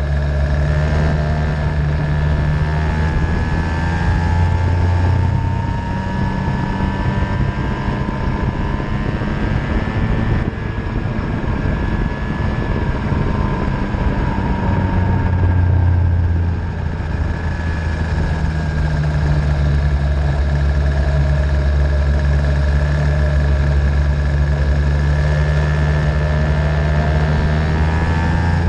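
50cc Venom racing engine running on track, its pitch rising and falling slowly several times as it speeds up and slows, over a steady low rumble.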